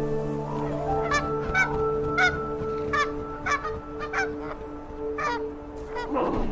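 Geese honking, about ten short calls, over steady sustained background music.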